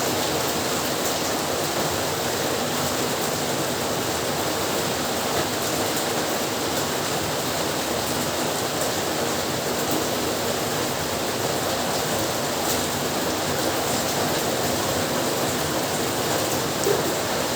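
Heavy rain falling steadily, an even hiss with scattered drop ticks and one slightly louder tap near the end.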